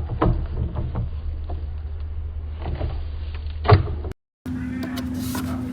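Vacuum cleaner running with a steady low hum, with scattered clicks and crackles of debris being sucked up. A little after four seconds in, it drops out to silence for a moment, then comes back as a different steady hum with a higher tone.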